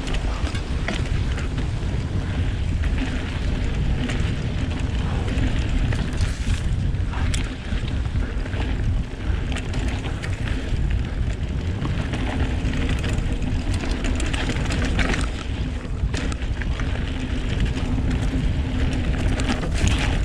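Wind buffeting an action camera's microphone during a fast mountain bike descent, with steady tyre rumble on a dirt trail and scattered knocks and rattles as the bike goes over bumps.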